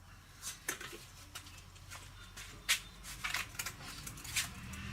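Scattered light clicks and taps, about a dozen at uneven spacing and the loudest nearly three seconds in, over a faint low steady hum.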